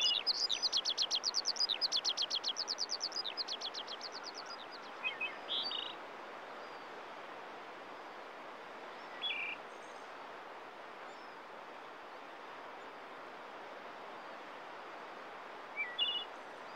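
Bird calls: a fast run of short, high notes, about seven a second, fading out over the first few seconds. Then a few separate short chirps, over a steady outdoor hiss.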